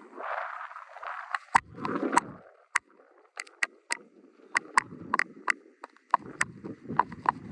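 A horse's hooves clip-clopping on hard ground at a walk: a string of sharp, irregular clicks, with a rushing noise over the first two seconds.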